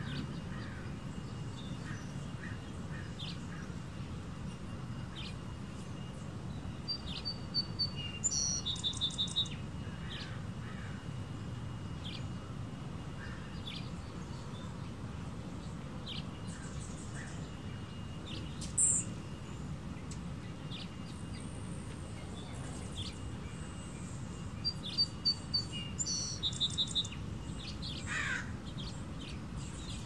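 Small birds chirping: clusters of short, high, rapid chirps about eight seconds in and again near the end, a single sharp high call in the middle, and a falling call near the end, over a steady low background noise.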